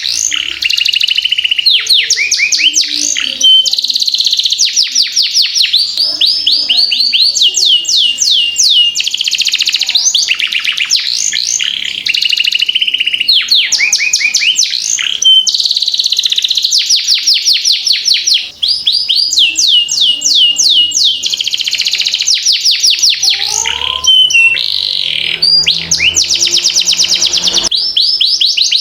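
Domestic canary singing a long continuous rolling song: fast trills of quickly repeated falling notes, switching from one trill to the next every second or two without a break.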